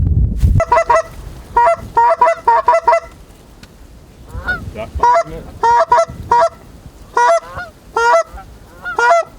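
Canada geese honking: short, clear honks in quick runs of several, with pauses between the runs.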